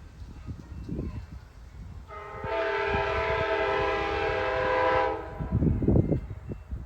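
Locomotive air horn sounding one long, steady blast of several notes at once, starting about two seconds in and lasting about three seconds, over the low rumble of a passing train.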